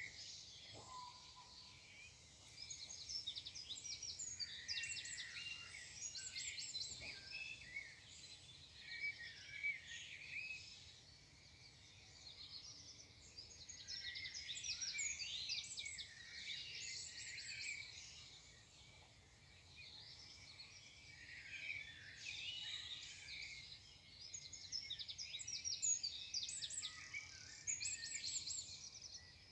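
Several songbirds singing, with quick runs of high chirps and trills overlapping in waves a few seconds long, over a faint steady background hiss.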